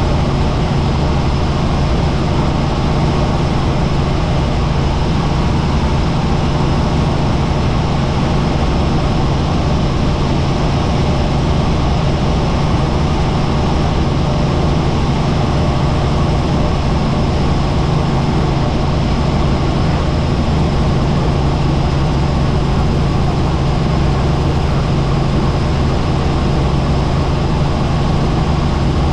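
Helicopter in flight: a steady, loud drone of rotor and turbine engine, with a strong constant low hum and a thin high whine over it.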